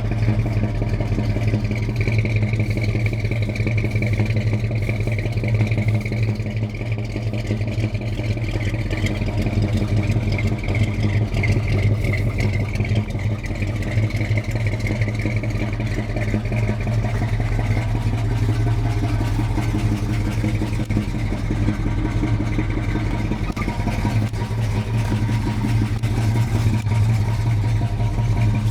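Plymouth Barracuda's carbureted engine idling steadily during warm-up after a cold start.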